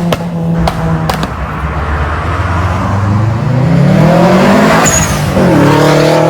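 Car engine accelerating, its note climbing, dropping suddenly a little after halfway as if on a gear change, then climbing again. A few sharp clicks come in the first second and a half.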